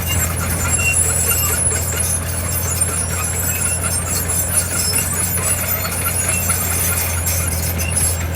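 Heavy diesel earthmoving machinery running steadily, with faint high-pitched metallic squeaks and clinks over the low engine sound.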